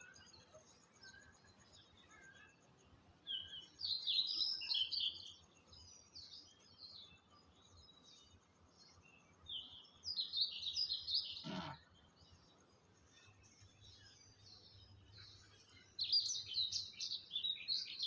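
A songbird singing in short bursts of quick, high chirping notes: three phrases of about two seconds each, a few seconds apart.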